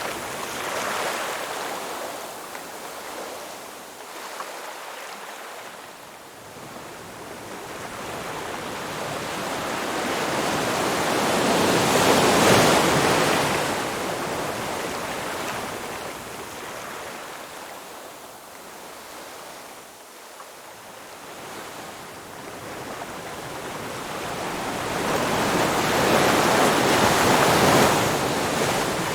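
Ocean surf washing on a shore, a steady hiss that slowly swells and falls away. Two waves break loudest, about halfway through and again near the end.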